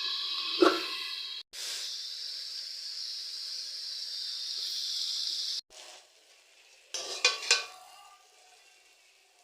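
Vegetables frying in hot oil with a steady sizzle, with a single knock about half a second in. The sizzle cuts off abruptly twice and stops a little past halfway, and a few quick clinks of a utensil against the pan follow about seven seconds in.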